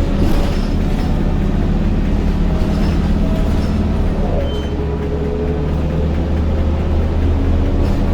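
Scania K230UB bus under way, its Scania DC9 diesel running with a high-pitched whine from the ZF Ecomat 6HP504C automatic gearbox. The whine climbs slowly, drops in pitch a little past halfway as the gearbox changes gear, then climbs again.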